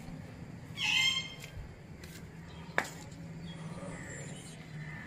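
A short bird squawk about a second in and a single sharp click near three seconds, over a faint steady low hum.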